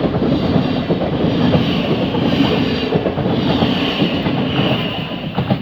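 Electric multiple-unit passenger train passing at close range: steady rumble of wheels on the rail with a faint high whine from the traction equipment, dropping away right at the end.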